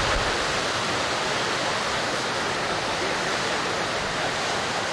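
A steady, even rushing noise that neither swells nor fades.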